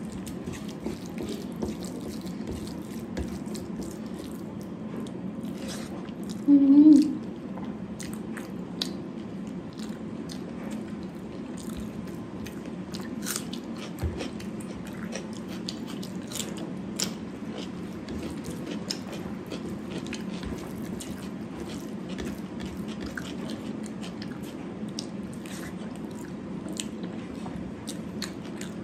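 Close-up eating sounds: chewing with many small, sharp, wet mouth clicks over a steady low background hum. About six and a half seconds in comes a short, loud, pitched vocal hum.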